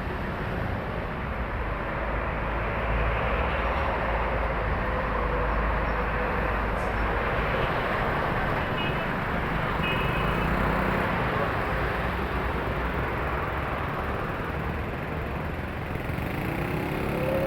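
Steady heavy road traffic of trucks and other vehicles passing: continuous engine rumble and tyre noise. Near the end one engine's note rises as it speeds up.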